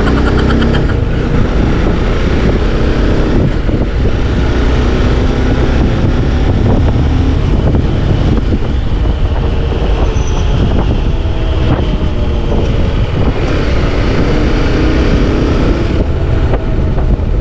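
Wind noise on the microphone and the TVS Apache RR 310's single-cylinder engine running steadily while the motorcycle is ridden along the road.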